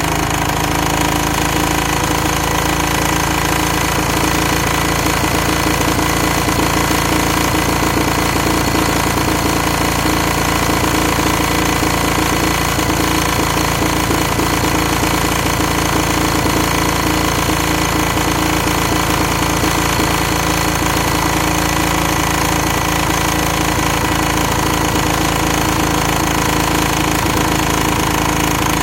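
Old Daedong power tiller's single-cylinder diesel engine running steadily and loudly with a hard, rapid knocking beat.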